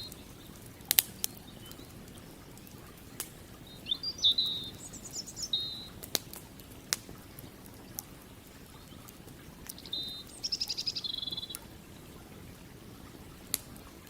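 Campfire crackling, with scattered sharp pops of burning wood, the loudest about a second in. A songbird sings two short high, trilling phrases, around four seconds in and again around ten seconds in.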